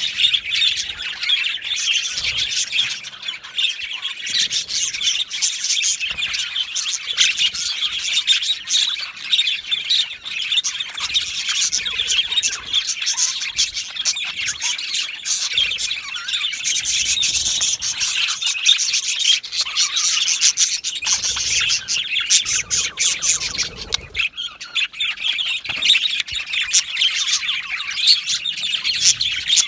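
A colony of budgerigars chirping and chattering together without a break, with occasional sharper squawks.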